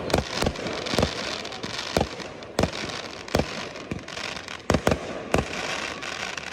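Fireworks display: aerial shells bursting in a run of about ten sharp bangs, irregularly spaced at roughly one or two a second, over a dense crackle between them.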